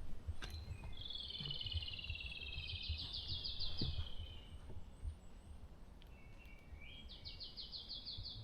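A songbird singing: a long, fast trill about a second in, then another burst of quick repeated notes near the end, over a low rumble with soft thuds.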